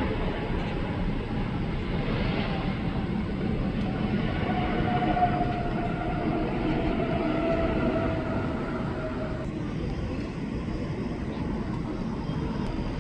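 Jet airliner engines running as the aircraft passes, a steady rushing noise carrying a faint tone that slowly falls in pitch, easing off about ten seconds in.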